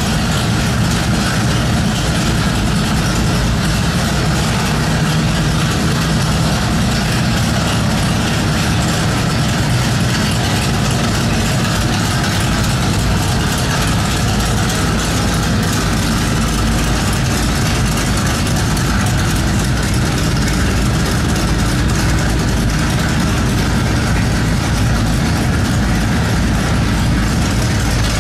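1967 Chevrolet SS's V8 engine idling steadily, a loud, even low rumble with no revving.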